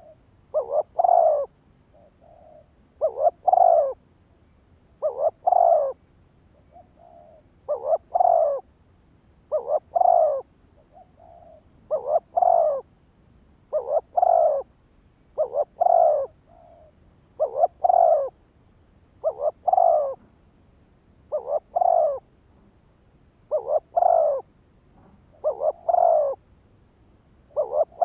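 Spotted dove cooing, a short phrase of two or three quick notes repeated about every two seconds, with softer notes between some of the phrases.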